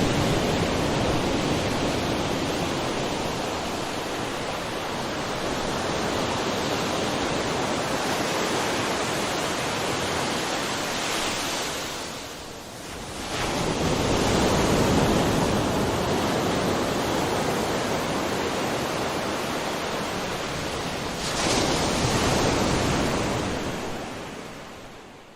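Sea waves washing on the shore: a steady wash of surf that dips, then swells as a wave breaks about halfway through and again near the end, and fades out at the close.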